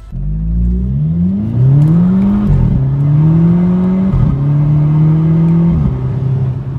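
Volkswagen Mk6 GTI's turbocharged four-cylinder engine accelerating through the gears: the engine note climbs in pitch, then drops at each of three upshifts.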